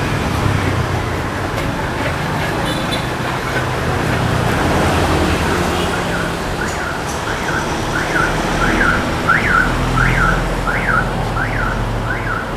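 Street traffic noise with a low engine hum, joined about six seconds in by an electronic alarm sounding repeated rising-and-falling tones, about one and a half a second.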